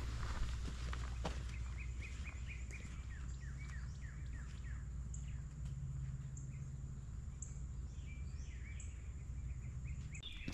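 Birds singing outdoors: a run of short, quick falling chirps about two to four seconds in, then thin high chirps every second or so, over a low steady rumble.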